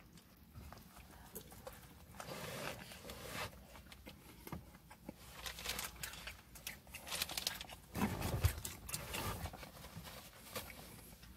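A person eating a sandwich close to the microphone: chewing with many small wet mouth clicks and smacks, and a louder bump with rustling about eight seconds in.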